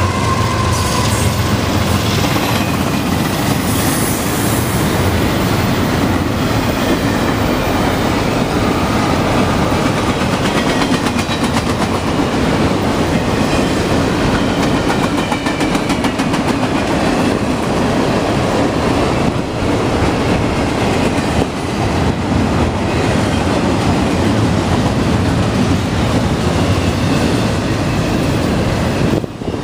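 Union Pacific double-stack container freight train passing close by: a steady loud rumble of steel wheels on the rails with clickety-clack as the cars roll over the rail joints, after the trailing diesel locomotive at the start.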